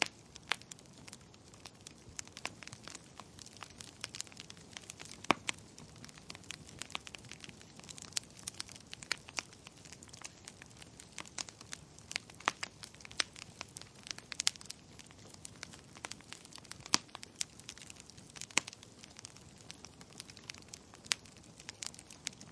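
Wood fire in a fireplace crackling, with irregular sharp pops, some louder than others, over a steady low hiss.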